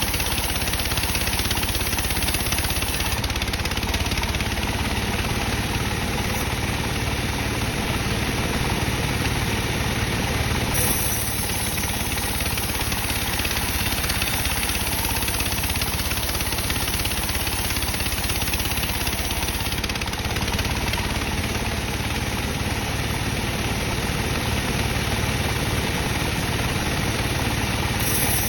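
Sawmill bandsaw machine running steadily through dry teak, an even, unbroken mechanical noise with a high hiss that comes and goes in long stretches.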